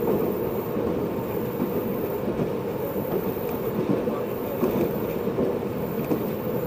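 JNR 583 series electric train running at speed, heard from inside motor car MoHaNe 582: a steady rumble of wheels on rail and running gear, with no clear clickety-clack rhythm.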